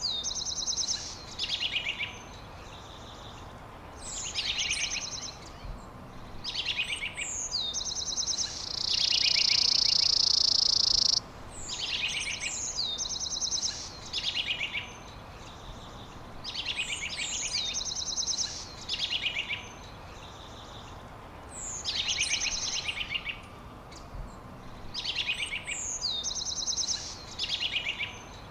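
A songbird singing the same phrase over and over, about every four seconds: a high whistle sliding down, then quick trills. A third of the way in, a loud, high, steady buzz lasts about two and a half seconds.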